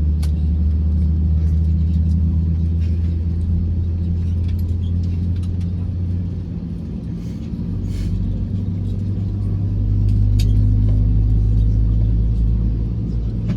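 Low, steady drone of an Airbus A321 on the ground during start-up. It dips a little about halfway through, then settles at a slightly higher pitch.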